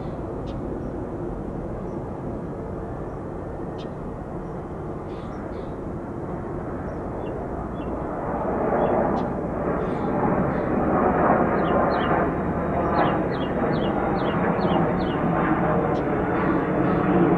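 Jet noise of an arriving Airbus A350-900 and its Rolls-Royce Trent XWB turbofans: a steady rushing sound that grows louder about halfway through as the airliner comes in to land.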